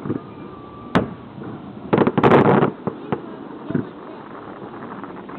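Aerial fireworks exploding: one sharp bang about a second in, then a rapid crackling cluster of bursts a second later, followed by a few smaller pops. The reports echo off a nearby cliff.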